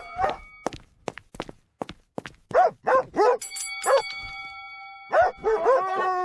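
A dog barking: a few single barks about two and a half seconds in, then a quick run of barks near the end. Sharp taps come in the first two seconds, and a steady ringing tone sounds in the middle.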